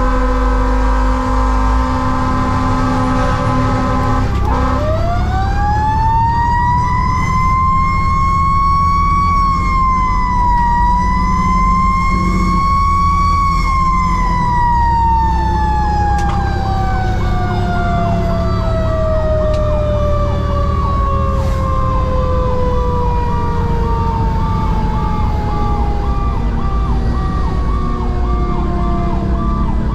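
Fire engine siren winding up about four seconds in, climbing to a high pitch, dipping once and rising again, then slowly winding down, over the fire engine's steady engine and road noise.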